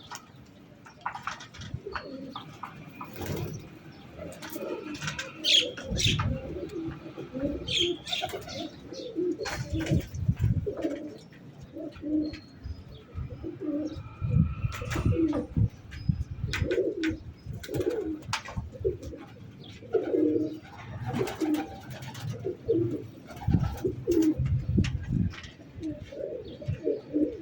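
Domestic pigeons cooing, one low coo after another about every second, with bursts of low rumble at times.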